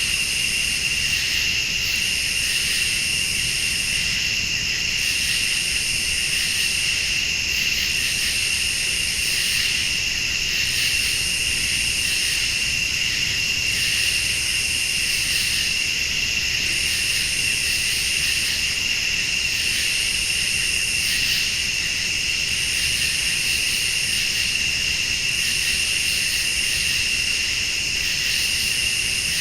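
Night chorus of crickets and other late-summer insects, trilling steadily. A higher-pitched insect call comes and goes about every two seconds over it.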